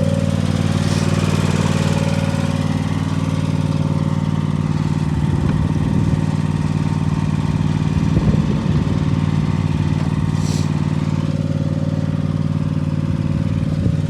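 A small petrol engine running steadily at constant speed, with a short hiss about ten seconds in.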